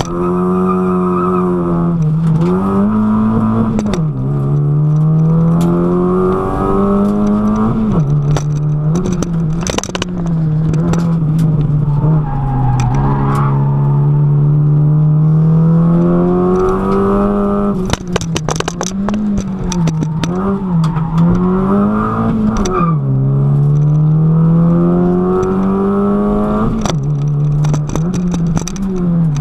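Honda Civic 1.4's four-cylinder engine heard from inside the cabin during a slalom run. Its note climbs and drops again and again as the throttle opens and closes through the course, with a longer steady stretch about halfway through.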